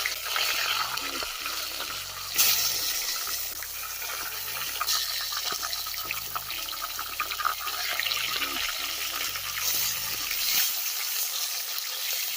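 Chicken pieces sizzling as they fry in hot oil and caramelised sugar in a pot, a steady hiss with a louder surge about two seconds in.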